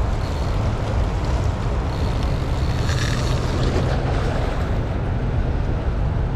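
Steady rush of water pouring from the dam's open flood gates, with wind buffeting the microphone.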